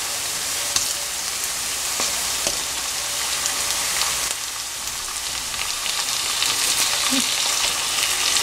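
Chopped onions and curry leaves sizzling and crackling in hot oil in a pan, the sizzle growing louder in the second half as raw chicken pieces go in.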